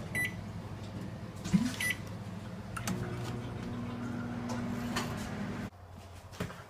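Microwave oven running with a steady low hum, after a few short keypad beeps near the start and about two seconds in. The hum cuts off suddenly near the end.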